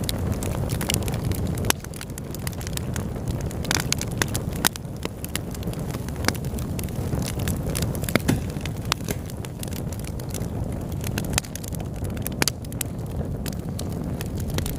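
Fire burning in a fireplace: frequent irregular sharp crackles and pops over a steady low rumble of the flames.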